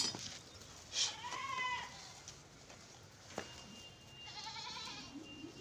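Sojat goat kids bleating: two calls, one about a second in and a fainter one about four seconds in, with a couple of short knocks between.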